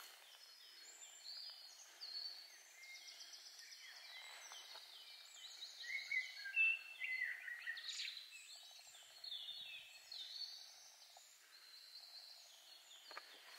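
Several songbirds singing at once, many short chirps and trills overlapping.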